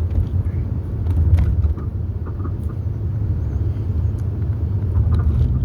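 Steady low rumble with a few faint, short clicks.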